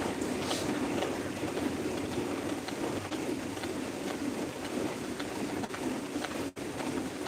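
Heavy, steady rain pouring down, an even hiss of water with scattered drop ticks, briefly cutting out about six and a half seconds in.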